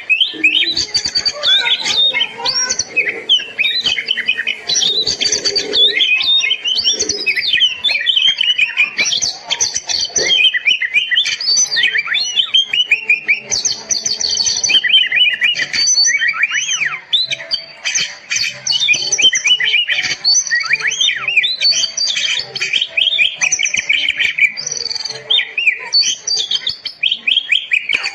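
Oriental magpie-robin (kacer) singing a continuous, rapid stream of varied whistles, chirps and trills, with hardly a pause, in full energetic song.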